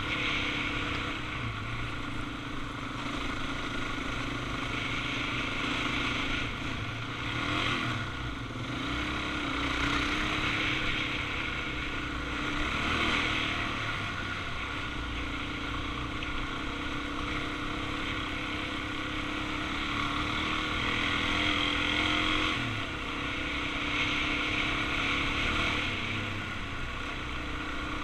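Suzuki DR-Z400's single-cylinder four-stroke engine running under way at a steady cruise, its pitch dipping and rising slightly a few times, over a steady rush of wind and road noise.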